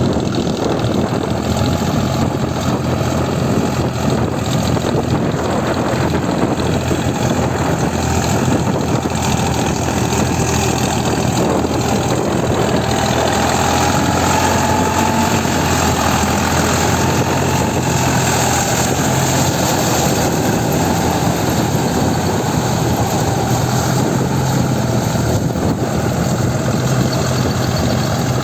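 Deutz-Fahr Agrolux 50 4WD tractor's diesel engine running steadily with an even, unchanging drone.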